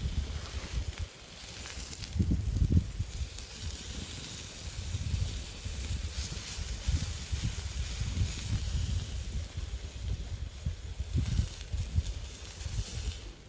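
Steady hissing of food cooking over a small wood fire, with a low rumble underneath.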